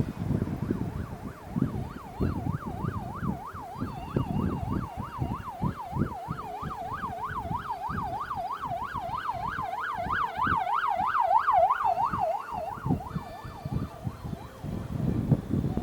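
Emergency vehicle siren in a fast warble, sweeping up and down about three to four times a second. It grows louder about two-thirds of the way through and fades out near the end, over a low rumble of wind and road noise.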